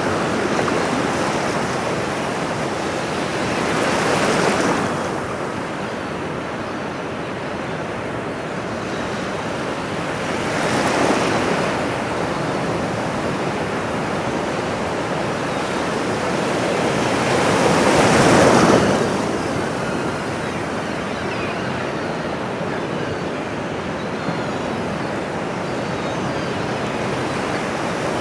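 Ocean waves washing on a shore: a steady rush of surf, with three louder waves breaking about 4, 11 and 18 seconds in.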